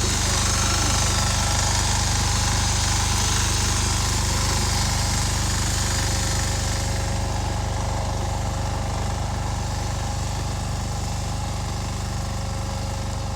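Two-wheel walking tractor with a rear tine tiller, its engine running steadily. A higher hiss over the engine eases off about seven seconds in.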